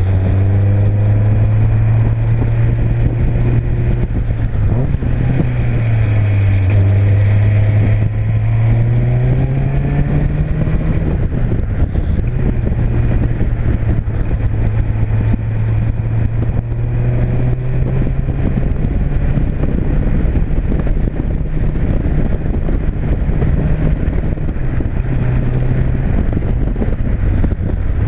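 Engine of an open-cockpit Seven-style sports car running on an Emerald K6 ECU, heard on board while driving: the engine note dips about five seconds in, climbs as the car accelerates between about eight and eleven seconds in, then holds fairly steady. Road and wind rush from the open cockpit lie under it.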